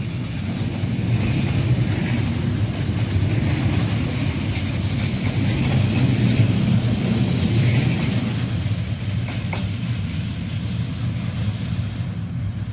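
Train hauled by a D19E diesel-electric locomotive going past at close range: a steady low diesel engine drone with wheel-on-rail noise over it.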